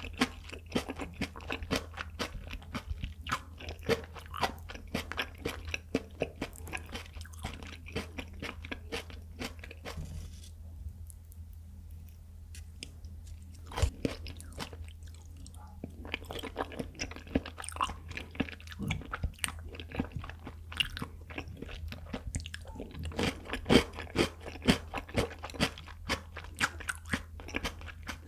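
Close-miked chewing and biting of raw tuna sashimi: dense, irregular wet mouth clicks, with a lull of a few seconds around the middle, over a faint steady low hum.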